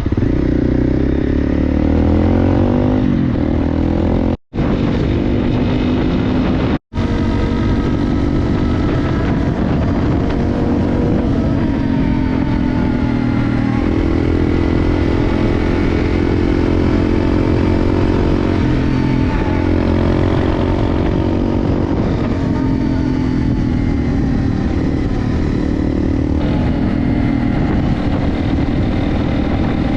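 Honda CRF250L single-cylinder dirt bike engine running under way, its pitch rising and falling with throttle and gear changes, broken by two very short gaps early on.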